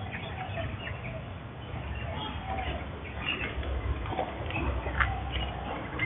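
Faint, scattered bird chirps over a low steady background rumble, with a single sharp click about five seconds in.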